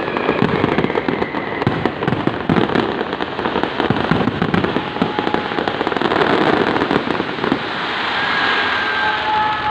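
Fireworks display: a dense run of bangs and crackles that turns into a smoother rushing hiss, with faint whistling tones near the end.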